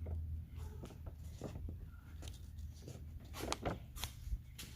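Faint handling noise: scattered light clicks and knocks over a low rumble, more of them in the second half.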